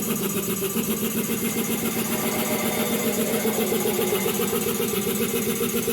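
Compressor for the furnace system running steadily with a fast, even pulsing, just after being switched on as the first step in starting the heating system.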